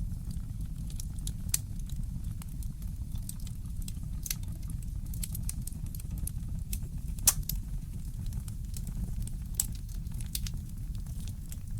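Fireplace crackling: scattered sharp pops and snaps over a steady low rumble, with one louder pop about seven seconds in.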